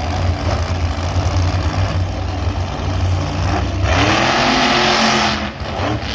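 Monster truck engine rumbling low, then revving up hard about four seconds in, with a short drop in revs just before the end.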